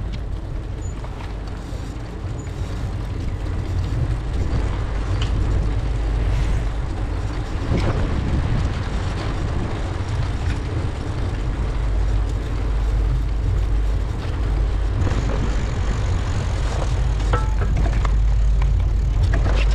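Steady low rumble of wind buffeting the microphone during a bicycle ride, with road noise underneath. It grows a little louder toward the end.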